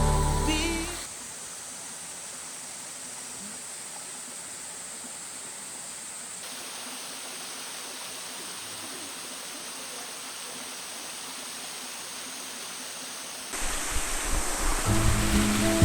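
Waterfall rushing: a steady hiss of falling water with no tone in it, louder from about thirteen seconds in. A song ends in the first second, and music begins again near the end.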